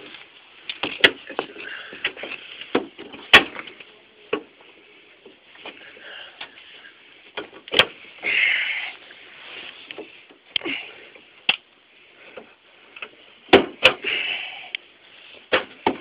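Irregular sharp knocks and clatter, with a short scraping rasp about eight seconds in and another around fourteen seconds.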